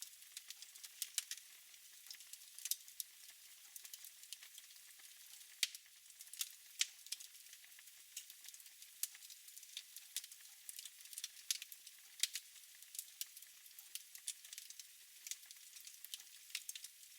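Fire in a fireplace crackling: irregular sharp pops and snaps, sometimes several close together, over a steady soft hiss.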